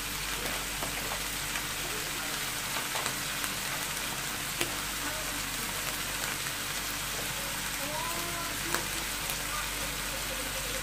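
Shelled clam meat and chopped onions frying in oil in a wok: a steady sizzle with a few sharp pops scattered through it.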